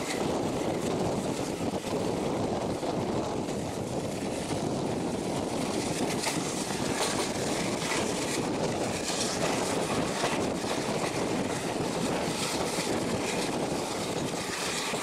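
A diesel-hauled passenger train running at speed, heard from the open door of an ICF coach: a steady rumble of the wheels on the rails with a rush of moving air.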